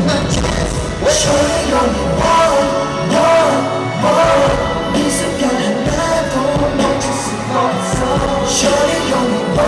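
Loud live K-pop concert music with a singer's voice over a heavy bass beat, as heard through the hall's PA.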